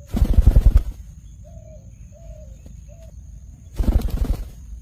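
Indian ringneck parrot flapping its wings in two short fluttering bursts, one at the start and one near the end. A few faint short notes come from the bird in between.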